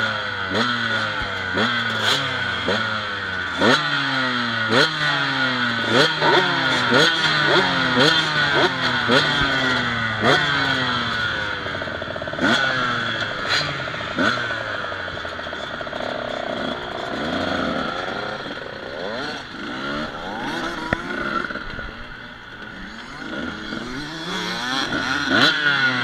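Motocross bike engines revving in quick repeated blips, each a rising whine, more than one a second; after about ten seconds the blipping gives way to a less regular mix of engines running.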